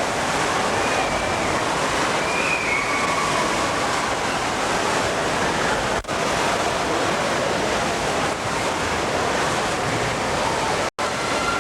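Steady rush of pouring and splashing water in an indoor water park, with faint distant shouting voices; the sound cuts out for an instant near the end.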